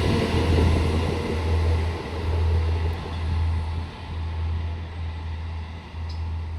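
Air-cooled MAN diesel engines of a departing triple set of Stadler GTW diesel multiple units, fading steadily as the train pulls away, over a constant low rumble.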